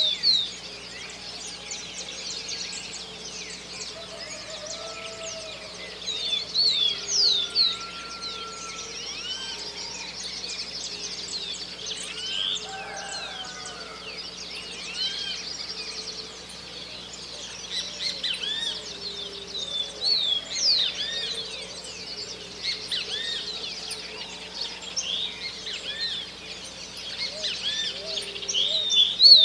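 Dawn chorus of many birds chirping and calling over each other, with louder clusters of quick repeated calls every several seconds. A faint steady low hum runs underneath.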